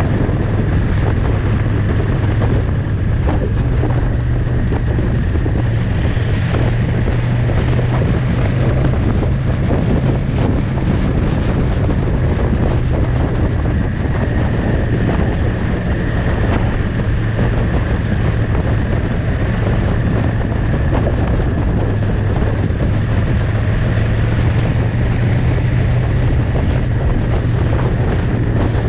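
Motorcycle riding at a steady cruising speed: an even, low engine drone under heavy wind noise on the microphone.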